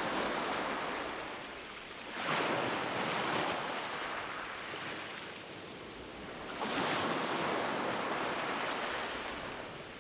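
Sea waves washing onto a shore: two surges of surf, about two and about six and a half seconds in, each rising quickly and fading slowly.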